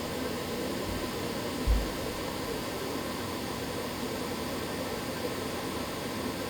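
Miele CX1 Blizzard bagless vacuum cleaner running steadily, a constant rushing hiss of motor and suction. A single low thump about two seconds in.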